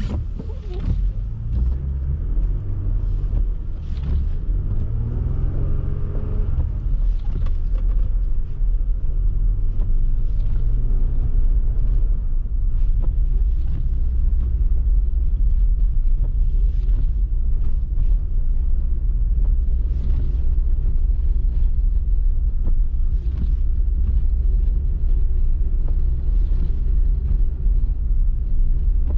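A car driving in snow: a steady low engine and road rumble, with the engine's pitch rising and falling during the first several seconds, and faint clicks now and then.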